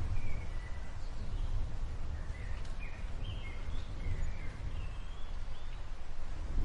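Storm ambience: a low, gusting rumble of wind, with a bird chirping a string of short, sliding notes over it.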